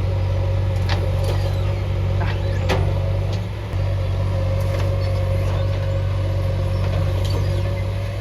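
Heavy diesel engine of a JCB 3DX backhoe loader running steadily at working revs, with a steady higher whine over it. Several sharp knocks stand out, and the engine note dips briefly about halfway through.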